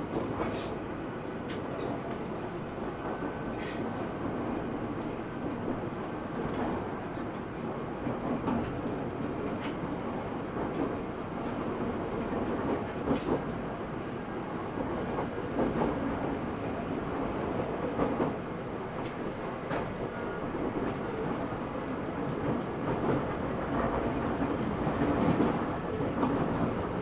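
Interior running sound of an E127 Series 0 electric train under way: a steady rumble of wheels on rail with scattered sharp clicks from the track.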